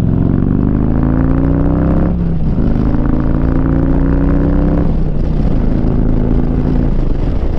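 Harley-Davidson V-twin through a Rinehart 2-into-1 exhaust, accelerating under load: the engine note climbs, drops at upshifts about two and five seconds in, and climbs again, with wind noise on the helmet microphone.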